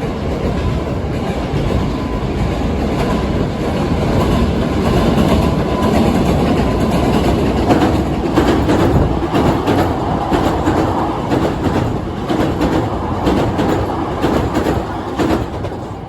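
Hankyu electric train crossing a railway bridge over the river: steady rumble of the cars, with a quick run of wheel clacks over the rail joints starting about halfway through.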